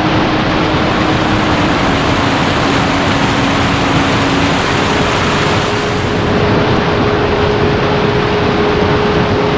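Heavy rain falling in a loud, steady rush, with a faint steady hum underneath that steps up in pitch about halfway through.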